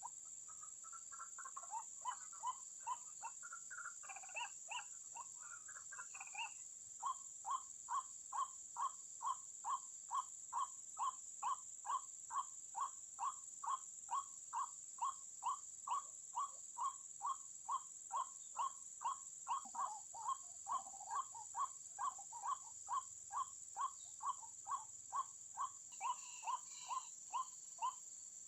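White-breasted waterhen calling: a few irregular croaking notes at first, then from about seven seconds in a long, even series of short 'kru-ak' notes at about two and a half a second, under a steady high hiss.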